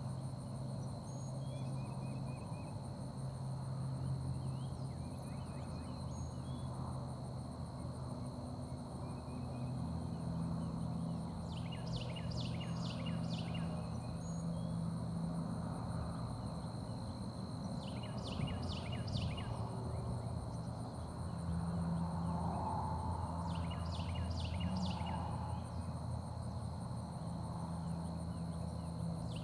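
Carolina wren singing: short bursts of quickly repeated, falling notes, about two seconds each, four times, the first about eleven seconds in. Under them runs a steady low hum and a thin steady high tone, with a few faint chirps from other birds early on.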